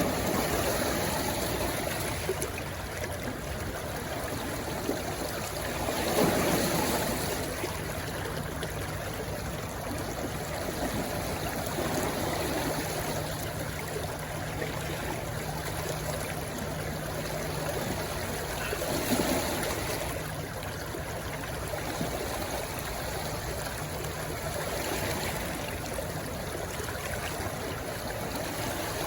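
Shallow stream rushing and gurgling over stones, a steady wash of water with brief swells.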